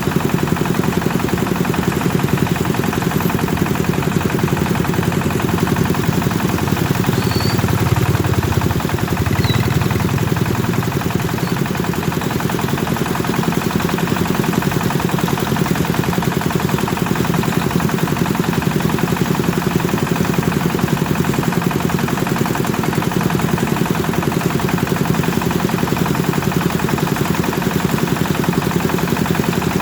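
Rice threshing machine driven by a Kubota engine, running steadily with a fast, even chugging and a dense mechanical clatter. The low hum swells briefly about eight to eleven seconds in.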